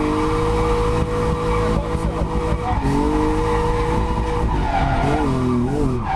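BMW M52 straight-six engine held at high revs while drifting, with the tyres skidding. The revs dip briefly partway through, then bob up and down twice near the end as the throttle is flicked.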